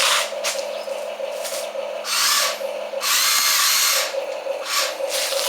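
Small electric motors and gears of a toy construction machine whirring in short bursts, with two longer, louder runs about two and three seconds in, over a steady pulsing hum.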